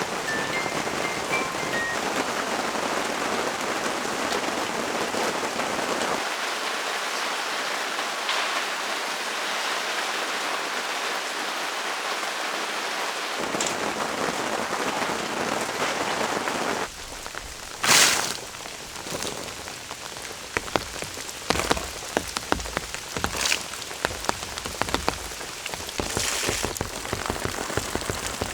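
Heavy rain falling as a steady hiss. About 17 seconds in it gives way to separate raindrops striking a surface as distinct ticks, one louder than the rest.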